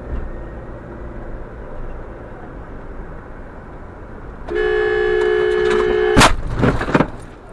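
Road noise from a moving car, then a car horn held for about a second and a half, then a sudden loud bang with a second knock under a second later.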